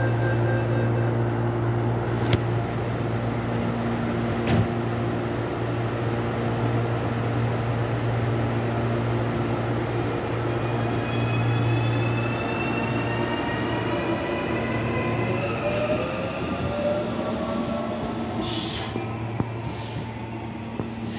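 CPTM electric commuter train at a station platform: a steady electrical hum, with two sharp knocks in the first five seconds. Through the middle the train's electric traction motors give off whines that rise in pitch as it gets moving, and hissing, squealing noises come near the end.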